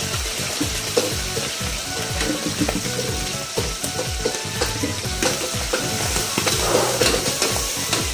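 Garlic and mix-ins sautéing in hot oil in a large steel wok over a gas burner: a steady sizzle, with a spatula stirring against the pan.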